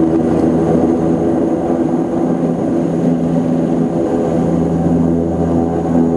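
Antonov An-24's twin Ivchenko AI-24 turboprop engines running steadily: a constant propeller drone with several held low tones over a rumble.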